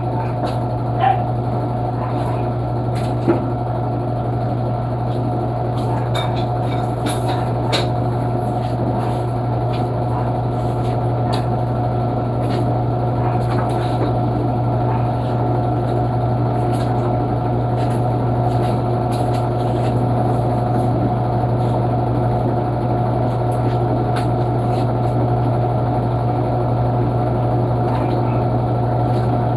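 Panasonic washing machine running, its motor giving a steady hum with a couple of faint clicks in the first few seconds.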